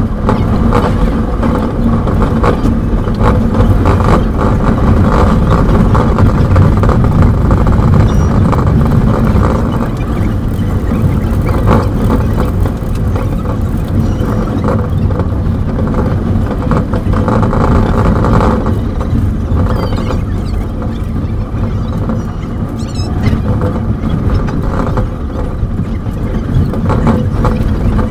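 Steady rumble and rattle of a passenger train running along the line, heard from inside the carriage, growing a little quieter in the latter half.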